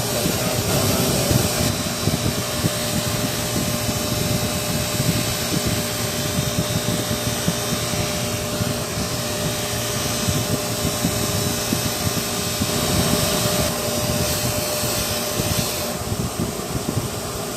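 Power buffing wheel running steadily, polishing a steel 1911 pistol frame with green polishing compound; it eases off near the end.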